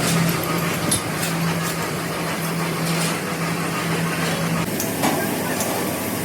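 A machine or engine running steadily, with a low hum that stops about four and a half seconds in and a few sharp knocks.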